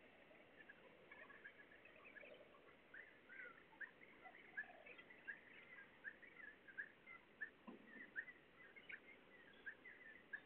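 Faint birdsong: many short chirps from small birds, repeating every fraction of a second, with a soft knock about eight seconds in.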